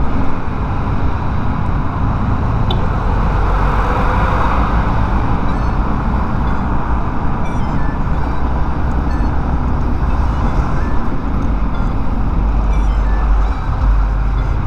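Steady wind rumble on a lavalier mic wrapped in a disposable glove, mixed with motorcycle engine and road noise while riding; the glove wrap has not stopped the wind noise.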